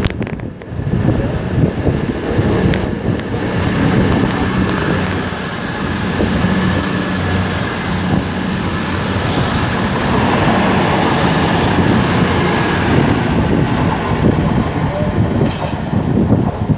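East Midlands Railway Class 222 Meridian diesel multiple unit pulling away from the platform, its underfloor diesel engines running under power. A high-pitched whine climbs slightly and fades about ten seconds in.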